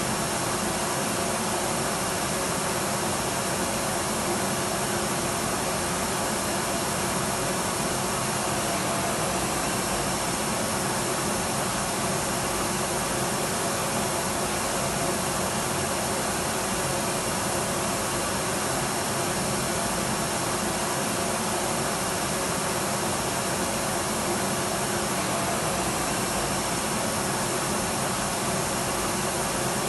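Electric vacuum cleaner running at a constant pitch, a steady even rush of noise with a faint steady hum in it and no change in level.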